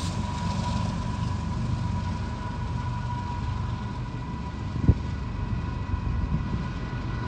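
A train rolling past with a steady low rumble and a faint steady whine above it, and a single sharp knock about five seconds in.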